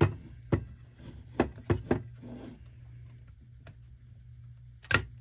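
Sharp metallic clicks and taps of small metal retaining tabs on a Uconnect radio housing being pried up with a hand tool. There is a cluster of three in the first two seconds and one more near the end, over a steady low hum.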